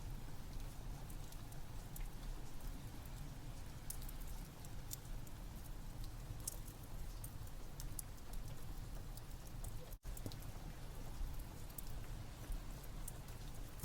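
Steady rain with a wood fire crackling, sharp pops scattered irregularly over a low rumble. The sound cuts out for an instant about ten seconds in.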